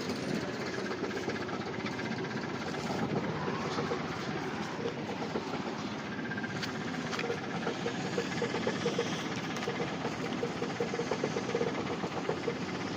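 SAAB 9000 2.0 turbo petrol four-cylinder engine idling roughly and unevenly, typical of a misfire, and shaking badly.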